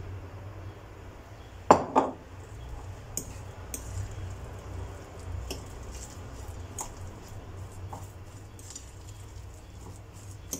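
Two sharp knocks about two seconds in, then scattered light clicks and clinks over a low steady hum, like hard objects being handled and set down.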